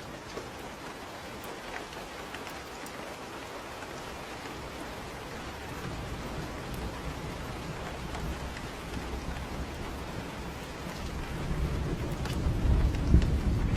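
Steady rain falling, with a low rumble of thunder coming in about halfway through and growing loudest near the end.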